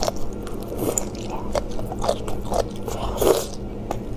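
Close-up mouth sounds of a person biting and chewing spicy braised duck and chicken parts: wet chewing with many small sharp crunchy clicks, and a longer, louder wet sound about three seconds in.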